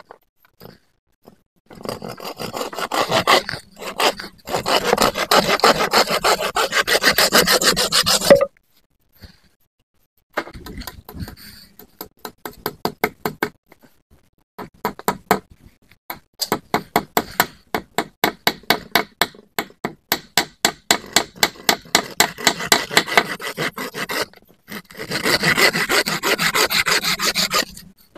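Hand saw cutting through wood in quick back-and-forth strokes, in several runs broken by short pauses.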